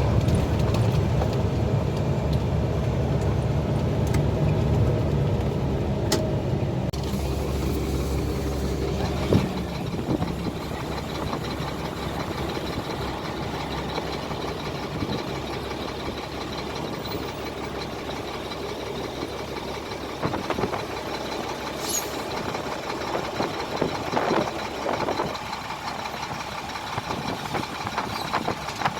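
Heavy truck's diesel engine running steadily. It drops to a quieter note after about nine seconds, with a few short knocks and hisses later on.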